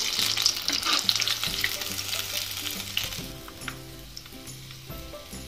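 Paneer pakodas deep-frying in hot oil, crackling and sizzling while a perforated steel skimmer stirs them. The sizzle fades over the last two seconds as the batch is lifted out of the oil.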